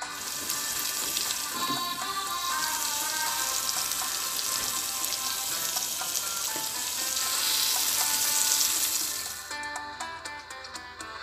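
Beef roast sizzling in hot oil in a pan, a dense crackling hiss over background music. The sizzle grows louder later on and stops suddenly near the end, leaving only the music.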